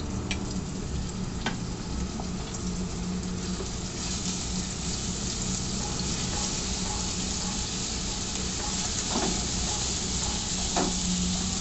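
Ginger-garlic-green chilli paste sizzling steadily in hot oil in a pan, the sizzle growing a little brighter about four seconds in, with a few light knocks of a spoon stirring it.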